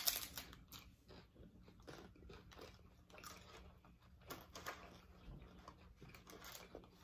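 A hard-shell corn taco bitten with a sharp crunch at the start, then chewed with smaller crunches close to the microphone.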